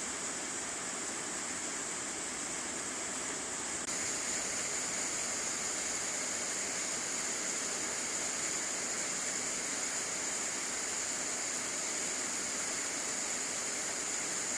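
Rain falling steadily, a constant hiss; it gets a little louder about four seconds in.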